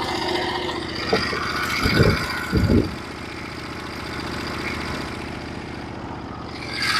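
Norwood HD36v2 portable sawmill's engine running steadily at idle, with two short louder sounds about two seconds in and the engine noise growing louder near the end.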